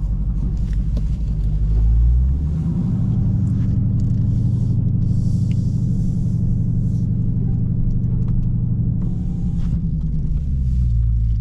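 Dodge Scat Pack's V8 engine running as the car pulls up. Its low drone steps up in pitch about two seconds in, holds, and settles back down near the end.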